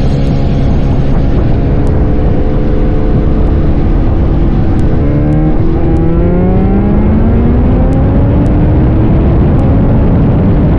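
Tuned Suzuki Hayabusa inline-four of a B-King motorcycle running hard under way: a steady engine note, a short break and drop in pitch about five seconds in, then a long steady rise in pitch as it accelerates again.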